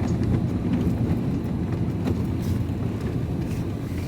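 Van driving along, heard from inside the cab: a steady low rumble of engine and road noise.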